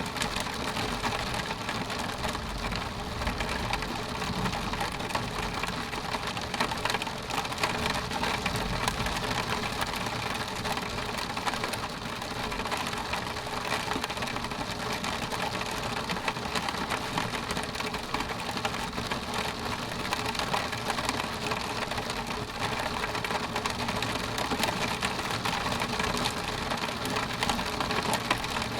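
Steady rain on window glass, a dense run of small drop ticks over an even hiss.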